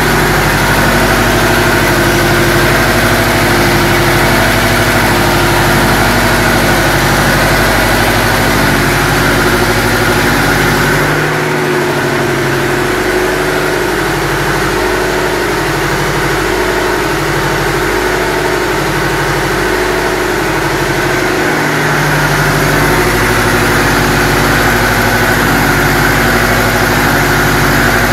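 Chinese marine diesel engine running steadily during its break-in run. It runs a little quieter for about ten seconds in the middle.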